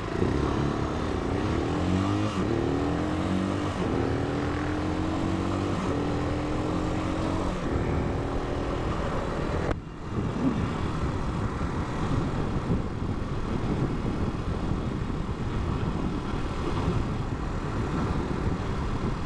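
Italika 250 motorcycle engine accelerating, its pitch climbing and breaking off several times as it shifts up through the gears in the first several seconds. It then settles into steady cruising, with wind and road noise.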